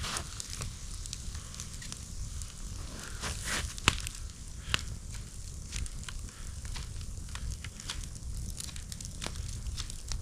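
Campfire crackling: irregular sharp pops and snaps of burning wood, the loudest two a little before and just after the middle.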